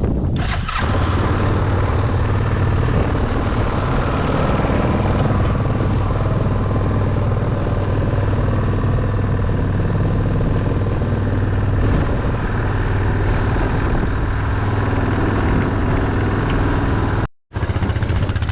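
ATV (quad) engine running steadily under load as it drives through a wet field ditch cutting drainage tracks. The sound drops out for an instant near the end.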